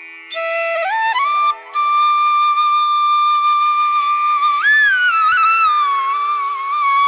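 Background music: a solo flute melody that steps up through a few short notes, then holds one long note, which bends up and slides back down, over a faint steady drone.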